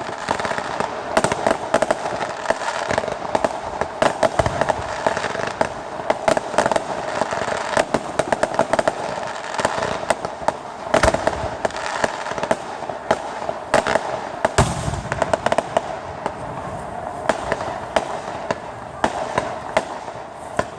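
Fireworks going off: a dense, continuous crackling and popping, with a few heavier booms about four, eleven and fourteen and a half seconds in.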